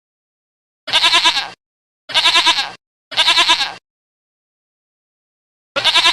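Goat bleating: three wavering bleats of under a second each in quick succession, then a pause of about two seconds and a fourth bleat starting near the end.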